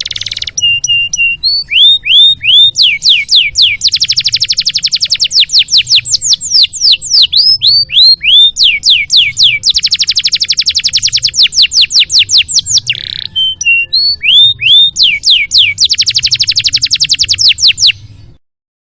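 Domestic canary singing a long, loud song of rapid rolling trills alternating with runs of sharp down-slurred whistled notes, over a faint low hum. The song cuts off abruptly near the end.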